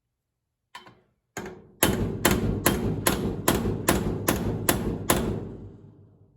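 Hammer blows on metal: two single strikes, then a steady run of about nine, roughly two and a half a second, each one ringing, as parts of a dishwasher circulation pump are knocked apart or driven in during a bearing replacement.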